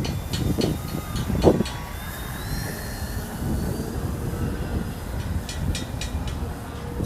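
Wind rumbling on the microphone, with the faint whine of a model aircraft's motor rising in pitch about two seconds in.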